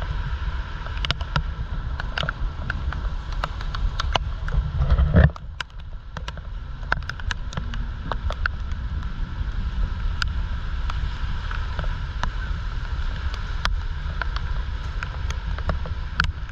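Typhoon wind buffeting a GoPro's microphone in a low rumble, with scattered sharp ticks of raindrops striking the camera. The rumble swells to its loudest about five seconds in, then drops away suddenly.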